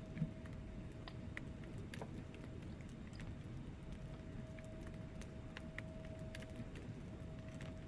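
Wood fire burning in a fireplace: a low steady rumble of flames with scattered sharp crackles and pops from the logs, over a faint steady tone.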